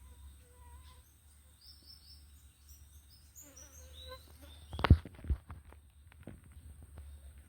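Scattered short, high chirping calls of small wild animals over a low rumble, with two sharp knocks close to the microphone about five seconds in, followed by light clicks and rustling.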